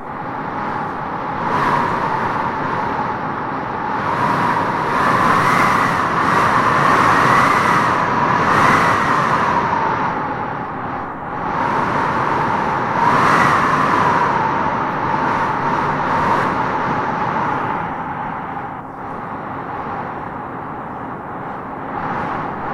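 Strong wind howling in gusts through trees: a steady rushing with a whistling note that rises in pitch as each gust swells. The gusts are strongest in the middle and ease off toward the end.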